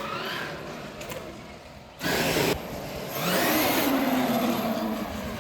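Electric RC cars' motors whining as they accelerate, the pitch rising near the start and again about three seconds in. There is a short loud rush of noise about two seconds in.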